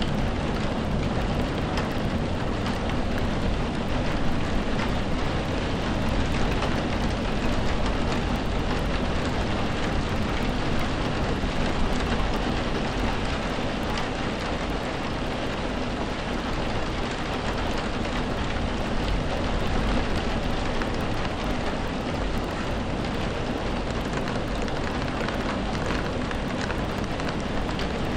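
Steady rain, a dense even hiss of falling drops with a low rumble underneath.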